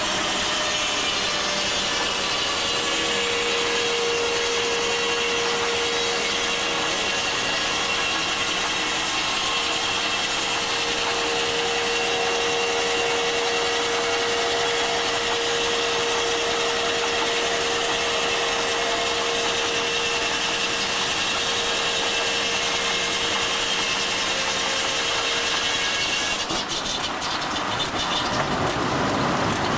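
Steam-powered sawmill's saw cutting through a log, a steady whine held through most of the cut. Near the end the whine stops and a rattling clatter takes over as the cut finishes.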